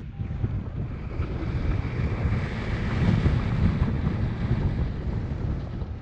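Wind buffeting a camera microphone on a paraglider in flight: a steady, rushing noise that swells toward the middle and eases again.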